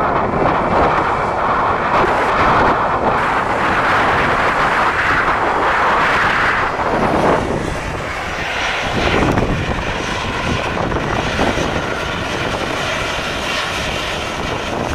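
Jet airliner engines running close by, a loud steady rush that dips about eight seconds in and swells again.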